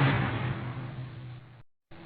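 Vehicle engine and road noise fading away, then cut off into a moment of dead silence, after which a quieter passage starts with a steady tone in it.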